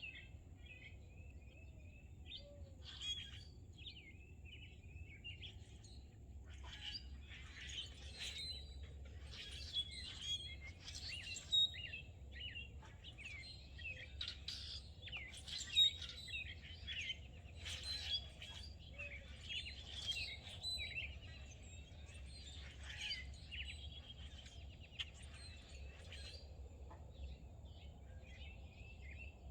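Several birds chirping and singing in overlapping short calls and trills, busiest in the middle, over a steady low background hum.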